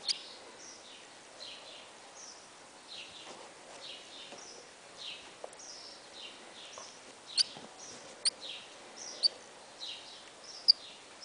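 A featherless, days-old nestling bird chirping steadily, short high falling peeps about two a second. A few sharp clicks in the second half stand out louder than the chirps.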